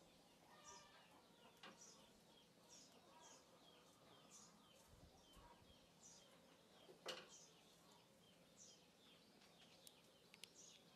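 Faint, high, falling chirps of small birds repeating about once a second, with one sharp click about seven seconds in, the loudest sound.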